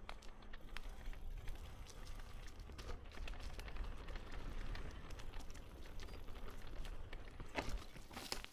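Footsteps on a forest trail, with irregular crackling and clicking underfoot over a low steady rumble.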